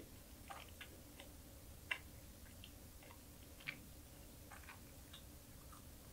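Close-up chewing of small anchovies and green chili peppers: faint, scattered crisp mouth clicks, with two sharper ones about two seconds and three and a half seconds in.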